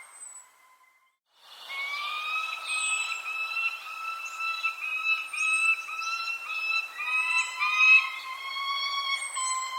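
Birds calling: a steady run of whistled notes with overtones, under short, high, falling chirps that repeat every second or so. The sound drops out to near silence about half a second in, then resumes about a second later.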